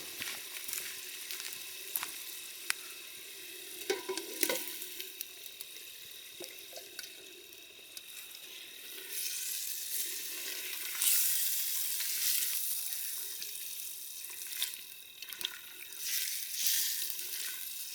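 Masala frying in a pan over a wood fire: a steady sizzle with the knocks and scrapes of a spatula stirring. The sizzle swells about nine seconds in.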